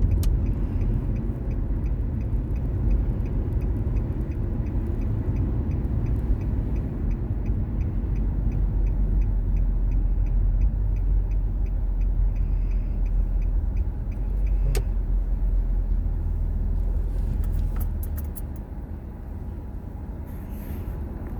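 Low, steady rumble of a car driving, heard from inside, with a faint, even ticking running through most of it. The rumble gets quieter from about eighteen seconds in.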